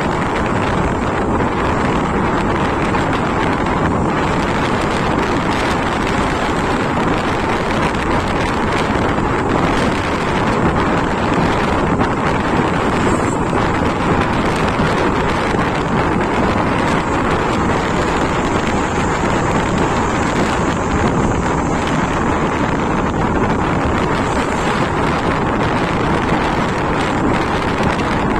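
Wind rushing over the microphone of a moving motorcycle, with engine and road noise underneath, steady throughout.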